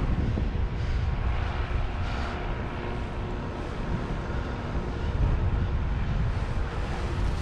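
Wind buffeting the microphone in an uneven low rumble, with a faint steady engine hum behind it.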